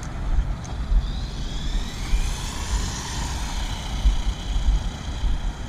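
Electric motor whine of a 1:18-scale 4WD RC truck at full throttle, rising in pitch as it speeds up and falling away after two or three seconds, over a heavy low rumble.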